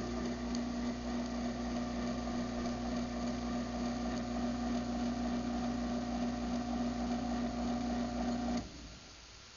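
Craftsman half-horsepower garage door opener motor running through a closing cycle, a steady hum with a clear tone, which stops abruptly about eight and a half seconds in as the travel ends.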